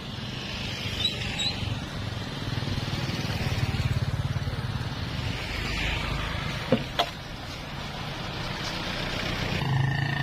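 Newwest 628 two-stroke petrol chainsaw running, its engine note swelling and easing, with two brief sharp sounds about seven seconds in.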